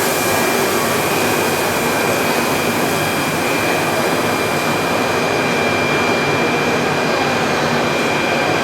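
Machinery of a PE and calcium carbonate pelletizing line running steadily: a loud, even machine noise with a steady high whine.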